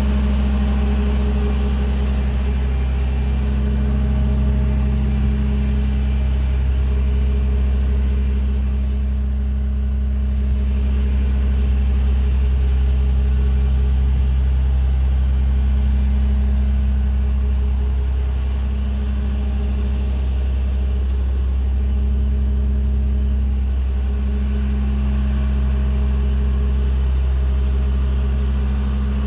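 Vehicle engine running steadily, a low drone with no revving.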